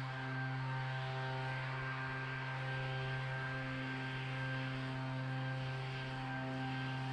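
Small gasoline engine of lawn equipment running steadily at one even speed, with a constant hum and no revving.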